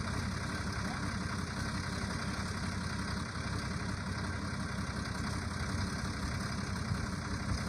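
Truck engine idling steadily, a low even rumble with no revving.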